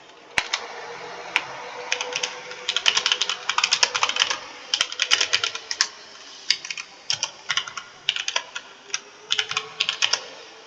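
Computer keyboard being typed on: irregular bursts of rapid key clicks separated by short pauses, densest about three to four seconds in.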